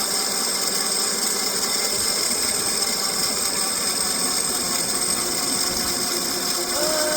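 Bike in motion: a steady mechanical running noise with a steady high-pitched whine over it.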